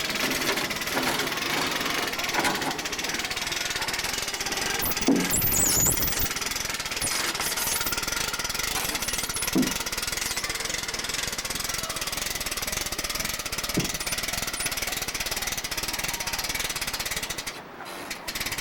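Water rushing steadily over a spillway, an even hiss-like noise, with a brief drop in level near the end.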